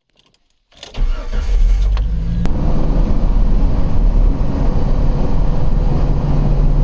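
1997 Jeep Wrangler's engine starting about a second in, then running with a steady low rumble.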